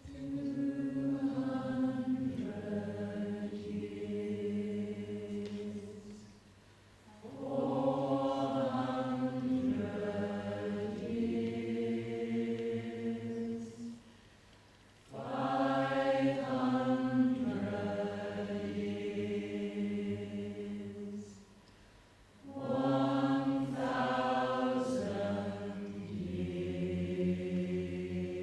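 Choir singing slow, held notes in harmony, in four phrases of about six seconds each with a short pause for breath between them.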